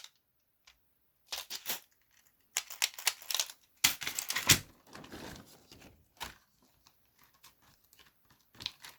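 Parts of a disassembled computer keyboard being handled: several short bursts of plastic clattering and crinkling of the thin membrane sheets, with pauses between.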